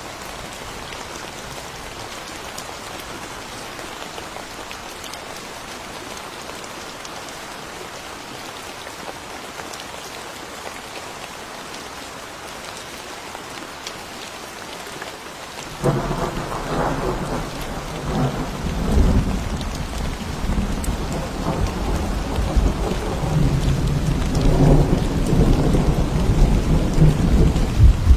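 Steady rain falling. About halfway through, thunder breaks in suddenly and rumbles on, growing louder toward the end.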